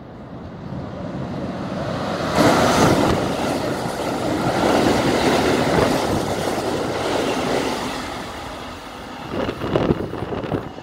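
Keikyu electric train passing through the station at speed. The rumble and wheel noise build to a loud peak about two seconds in, hold for several seconds, then die away, with a few sharp wheel knocks near the end.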